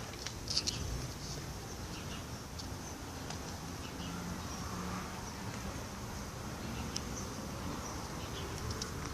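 Faint, steady high-pitched insect chirring, with a few scattered light clicks and taps, the sharpest about half a second in.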